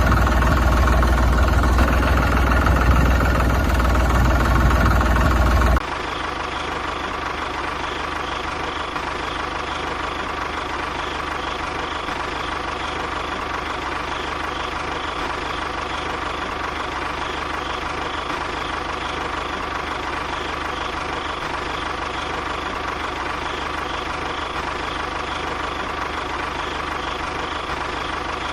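Loud music for the first six seconds, cutting off abruptly. After that, a steady engine-like running sound, even in level, like a small engine idling.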